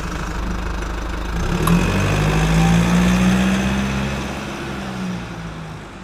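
A car engine running, its pitch rising about a second and a half in, holding, then easing off and fading near the end.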